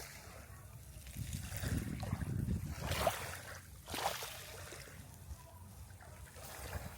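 Gentle splashing and trickling of water, with a few sharper splashes and a low rumble underneath.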